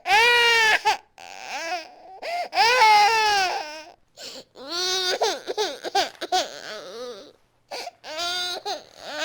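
Infant crying hard: two long, loud, high-pitched wails, then shorter broken cries with gasps for breath between them.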